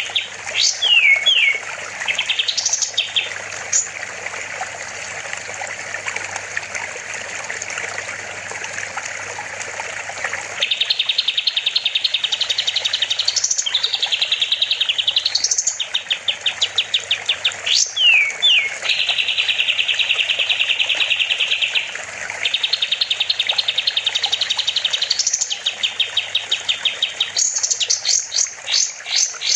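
Kapas tembak songbird singing a loud, varied song. It runs fast trills of rapidly repeated notes, rising whistled sweeps and one long buzzy trill, with short pauses between phrases. A steady hiss of running water sounds beneath it.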